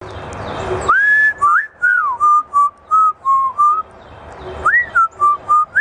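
Parrot whistling a short tune: a rising note, then a run of short clear whistled notes, with the phrase starting again near the end.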